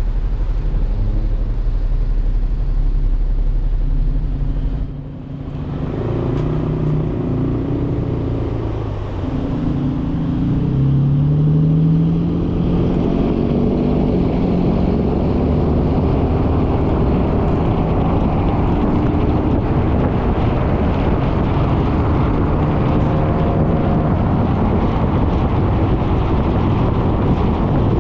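Suzuki Burgman 400 scooter's single-cylinder engine running steadily at low speed, then pulling away about six seconds in with a rising engine note for several seconds, settling into steady engine, road and wind noise at cruising speed.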